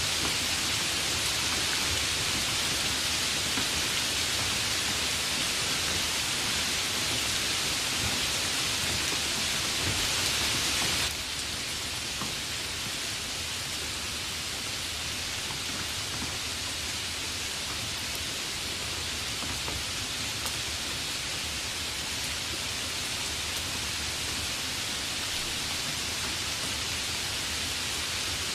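Steady rain, an even hiss without distinct drops or thunder claps, dropping suddenly to a slightly quieter level about a third of the way through.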